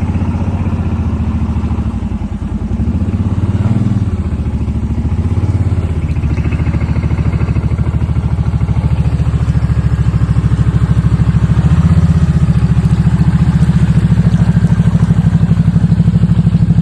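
Small off-road vehicle engine running steadily, rising in pitch briefly a few times as it is given throttle.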